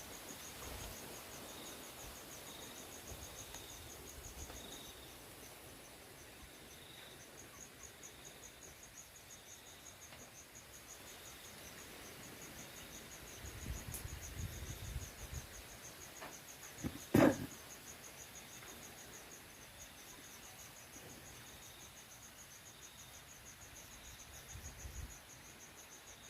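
Insects chirping steadily in a high, rapid pulsing rhythm, about five pulses a second. A single sharp knock comes about two thirds of the way through.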